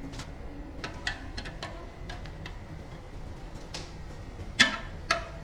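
Metal parts and hand tools clicking and tapping during workshop repair work, with two louder sharp metallic knocks near the end, over a low steady hum.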